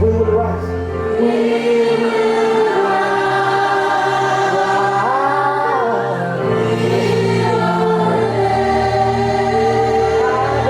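Slow gospel worship music: voices singing together over long held chords, with the bass note changing a couple of times.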